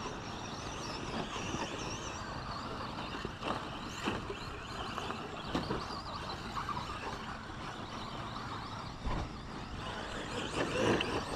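2WD short course RC trucks racing: their motors whine, rising and falling in pitch as they speed up and slow down, over tyre noise, with several sharp knocks.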